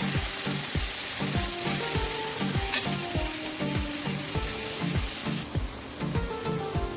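Food frying in hot oil, a loud steady sizzle that dies down about five and a half seconds in, with a sharp click near the middle, over background music with a steady beat.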